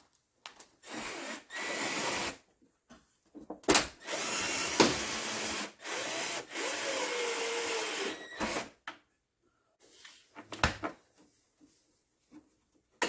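A cordless drill-driver runs in two stretches, a short one and then a longer one of about four seconds with a brief dip, driving screws. A few sharp knocks come around it.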